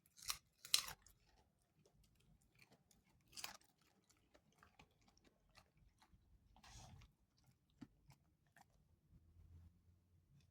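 A beagle chewing a raw carrot: sharp crunches as it bites, loudest twice near the start and again about three and a half seconds in, with quieter chewing clicks between.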